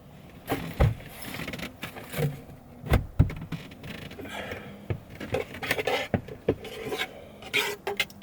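Kitchen things being handled in a small space: irregular scraping and rubbing with clicks and knocks, and louder knocks about one second and three seconds in.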